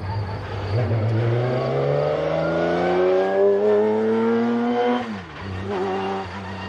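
McLaren F1's BMW V12 accelerating, its note climbing steadily for about four seconds, then dropping sharply about five seconds in and carrying on lower and steadier.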